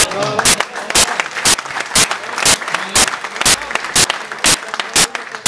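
Rhythmic clapping, sharp even claps about two a second, with voices underneath.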